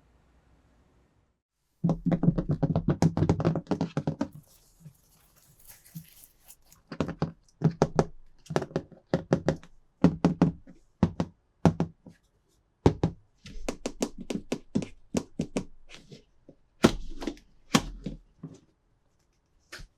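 Hands handling hard plastic toy pieces and packaging. A quick, clattering run of clicks comes about two seconds in, followed by a long series of separate taps and knocks.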